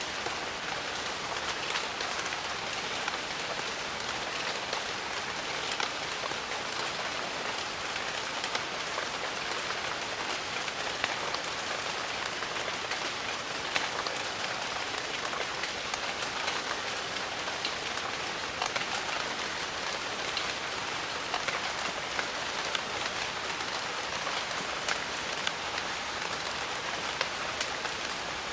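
Steady rain falling in a jungle, a dense even hiss with many sharp individual drops ticking and pattering on leaves and surfaces.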